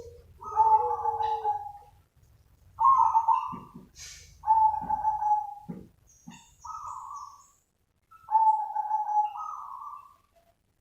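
Zebra dove (perkutut) cooing: about five phrases of clear, slightly trilled notes, each around a second long, separated by short pauses.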